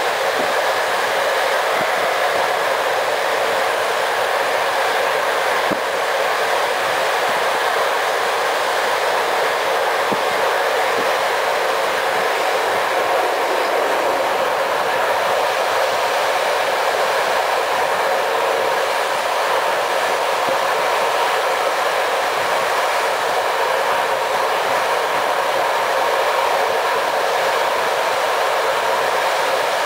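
Steady rolling noise of a passenger train coach at speed, heard from inside the carriage: wheels running on the track, with a few faint knocks.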